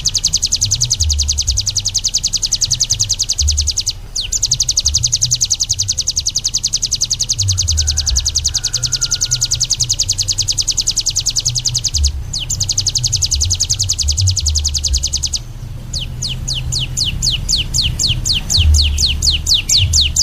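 A caged songbird singing a long, very fast, high-pitched trill, broken by brief pauses about four and twelve seconds in. From about fifteen seconds in it changes to a slower series of quick, down-slurred whistled notes. An uneven low rumble runs underneath.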